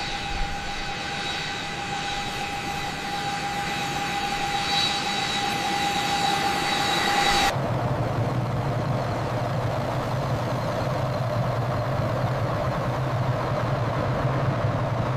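Jet aircraft engine running with a steady high whine over a rushing noise. About halfway through it cuts abruptly to a lower, steady rumble with a hum.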